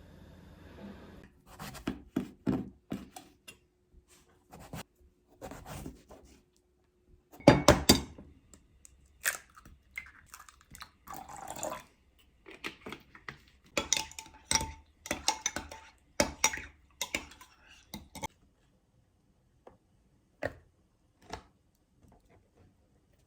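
Dishes and utensils clinking and knocking in a string of short, sharp sounds, the loudest knock about seven and a half seconds in, then only a few scattered ticks near the end.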